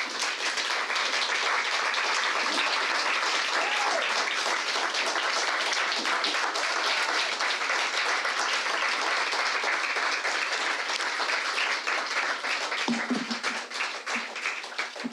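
Audience applauding, a dense, even clatter of many hands clapping that thins out and fades near the end.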